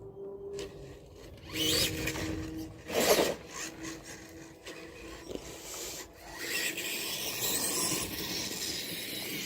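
Tamiya TXT-2 RC monster truck driving over rough ground: a faint steady motor whine under scraping and crunching, with a loud knock about three seconds in.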